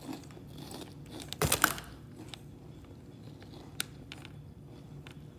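Cheese ball snacks being bitten and chewed: a loud crunching burst about one and a half seconds in, then faint scattered crunches and small clicks.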